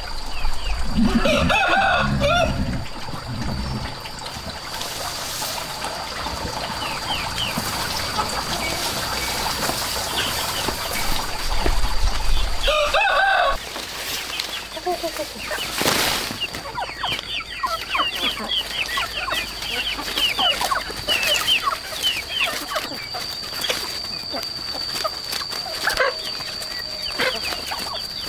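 Chickens: a rooster crows twice, about a second in and again about halfway through, with many short high chirps and clucks between and after.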